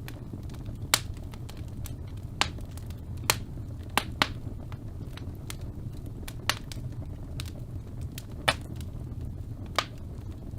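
Wood fire burning in a fireplace: a steady low rumble with sharp, irregular crackling pops, about eight loud ones and several fainter ones.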